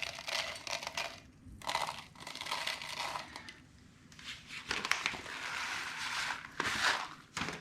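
Grass seed being shaken out of its opened packet into a planter: crinkling and rustling in several bursts, with a longer steady rustle about five seconds in.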